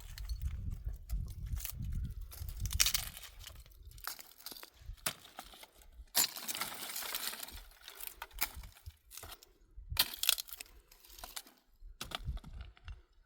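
Dry branches and brush crackling and snapping as they are broken and handled, in irregular bursts with sharp cracks, and a low rumble in the first few seconds.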